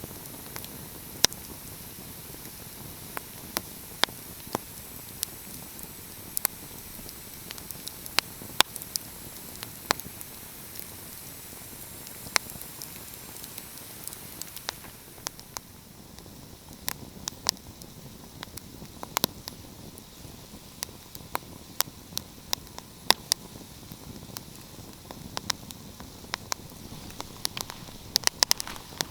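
Wood fire crackling: sharp pops at irregular intervals over a steady soft hiss, with a quick cluster of pops near the end.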